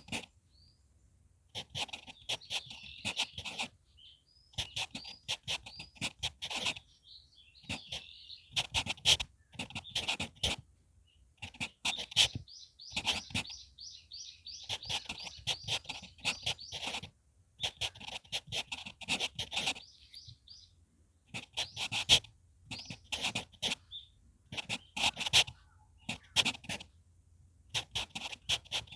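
HB pencil writing on paper close to the microphone, in clusters of quick scratchy strokes separated by short pauses. Small birds chirp and twitter throughout.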